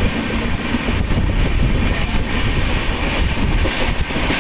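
Express train running on the track, heard from aboard a passenger coach: a steady, loud running noise of wheels on rails.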